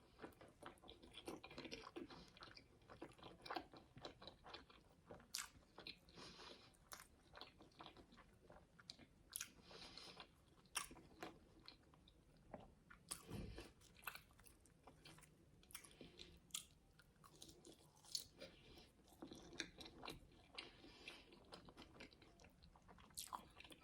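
Soft, close-up chewing and mouth sounds with scattered small crunches and clicks as a fried chicken burger with a hash brown is bitten and chewed.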